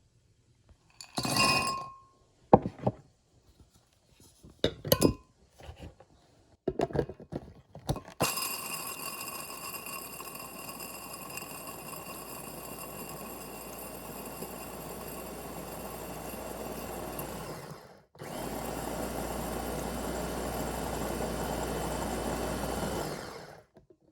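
An electric kitchen blender runs in two spells: about ten seconds, a short break, then about five seconds louder, ending abruptly. A few clinks and knocks come before it starts.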